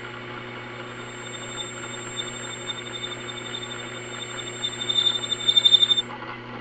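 Electric drill running steadily while boring a pilot hole in metal. Near the end the bit bites harder with a fast, pulsing high chatter for about a second and a half. Then the drill stops about six seconds in.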